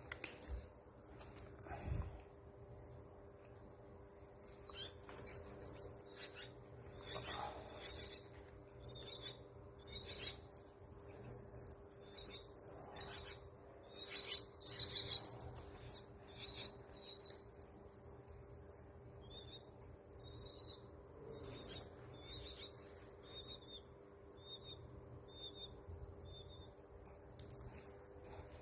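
Myna (นกเอี้ยงหงอน) calling: series of short, sharp, piercing high notes repeated in quick clusters, loudest in the first half and thinning out toward the end.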